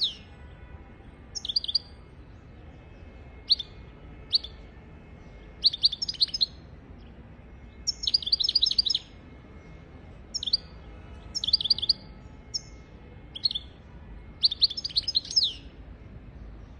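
European goldfinch singing: short phrases of rapid, twittering high notes, repeated about every one to two seconds with brief pauses between them.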